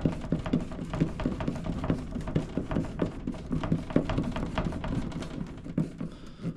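Drill running a screw into a tractor's cab roof, heard as a fast, irregular clatter of clicks and knocks.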